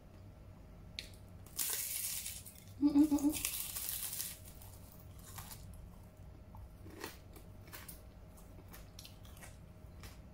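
Biting and chewing a large, tough raw okra pod. Two loud bites come about a second apart, with a short pulsed hum from the eater between them, followed by small chewing clicks. The big pod is hard and fibrous, so it does not snap off cleanly when bitten.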